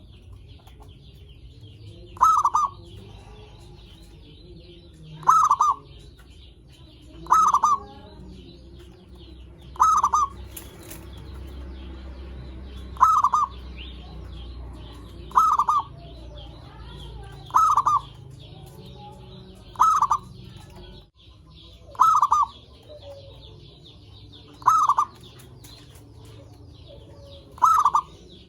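Zebra dove (perkutut) cooing: short rolling calls, one about every two to three seconds, eleven in all. A faint high chirping goes on steadily behind them.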